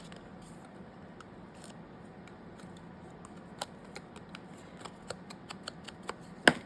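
Scattered small clicks and taps of paper and craft tools being handled on a desk, with one sharper, louder click near the end.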